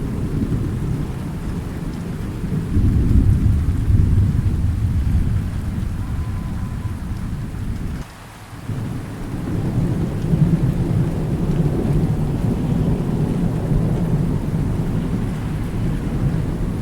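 Thunderstorm: low rolling thunder rumbling over steady rain. The rumble swells about three seconds in, drops away abruptly for a moment around the middle, then builds again.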